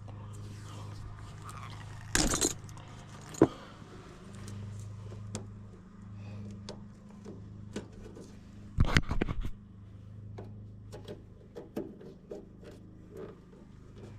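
Steady low hum of a furnace blower motor running, with scattered small clicks and rattles and two louder clattering bursts, one about two seconds in and one around nine seconds, as tools and meter leads are handled.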